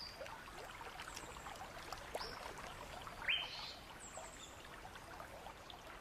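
Creek water trickling gently, with a few short high bird calls scattered through it, the most prominent a quick rising whistle about three seconds in.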